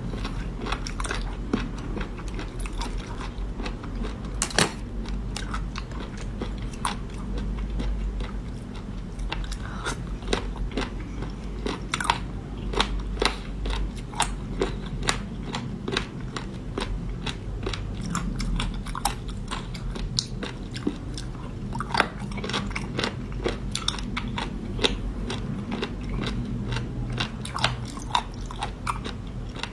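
Close-up eating sounds: a person biting and chewing seafood, with frequent irregular sharp crunches and cracks, over a steady low hum.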